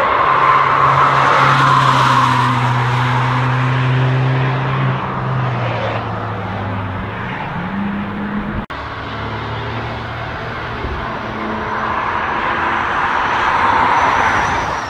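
Car engines passing on a race track: a Ford Fiesta hatchback runs through a corner with a steady engine note that rises as it accelerates away. After an abrupt cut about nine seconds in, another car's engine grows louder as it approaches.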